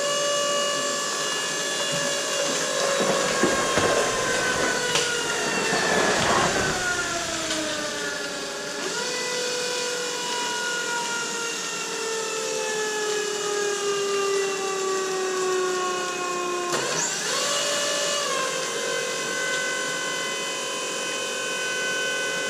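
Battery-powered electric motor of a PET bottle mini baler running under load as it compresses plastic bottles. Its whine sags steadily lower, running slow on a low battery, with a noisy crackling patch a few seconds in. About 17 seconds in the whine jumps back up and then holds steady.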